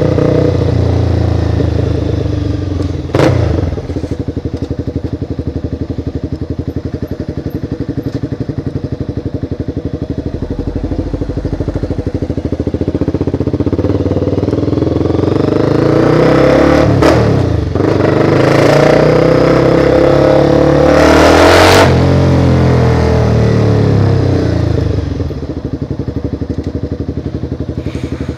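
Motorcycle engine running under way, with its pitch climbing in two pulls through the middle stretch and dropping briefly between them as it accelerates through a gear change. A few short, sharp noise bursts are heard, the first about three seconds in.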